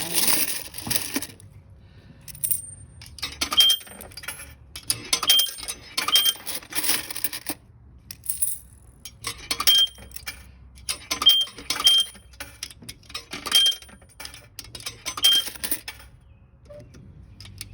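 Quarters being fed one at a time into the coin slot of a self-serve car wash pay box, each drop clinking and rattling down inside. Eight coins go in, each with a short high beep, making up the $2 start.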